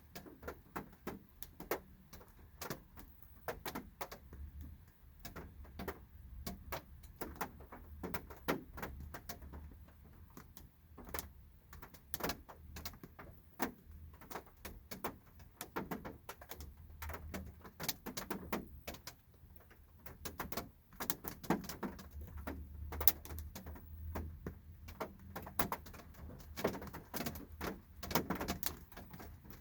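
Light raindrops tapping on a car's body and glass, heard from inside the car: sharp, uneven ticks falling at irregular intervals, a few each second, over a low steady rumble.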